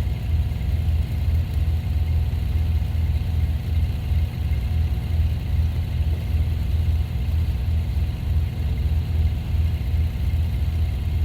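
A vehicle engine running steadily at low revs: a low, even hum with a regular pulse.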